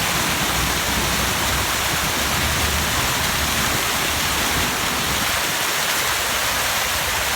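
Waterfall rushing: a steady, loud hiss of falling water, with a low rumble in the first few seconds.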